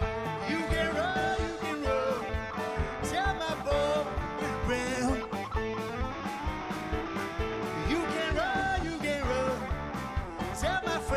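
Live blues band playing an instrumental break: a guitar solo with notes bent up and down over a steady drum beat and a held accompanying note.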